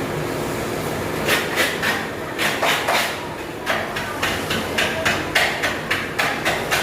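Hammer striking repeatedly in uneven knocks, about two or three a second, starting about a second in, over a steady background hum.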